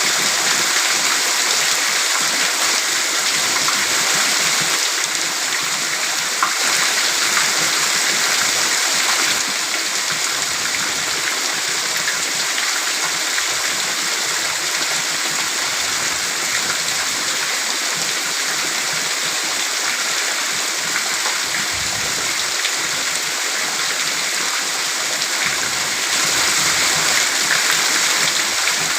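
Heavy downpour of rain: a dense, steady hiss, a little quieter from about nine seconds in and swelling again near the end.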